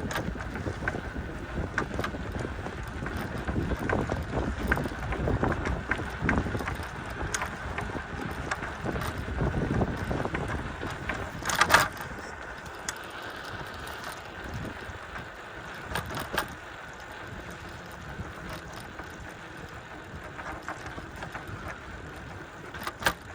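Wind buffeting the microphone over the rumble of a bicycle riding a trail, with scattered knocks and rattles. It is rougher and louder for the first half, with a sharp knock about twelve seconds in, then steadier and quieter.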